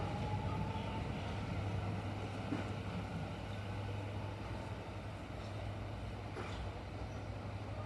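Kintetsu electric train pulling out and moving away: its motor whine rises in pitch for about the first second, then fades. The running noise dies down over a steady low hum.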